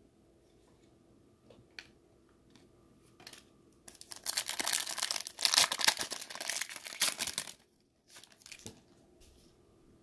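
A foil trading-card pack wrapper being torn open and crinkled: a few light rustles, then about three and a half seconds of loud crackling and tearing from just before the middle, followed by a few soft handling clicks.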